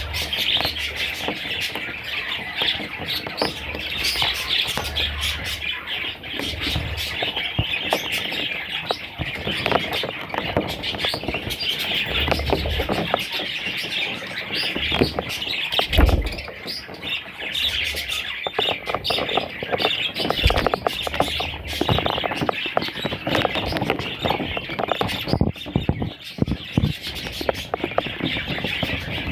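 A flock of budgerigars chattering and squawking continuously, many birds calling over one another, with a few low thumps.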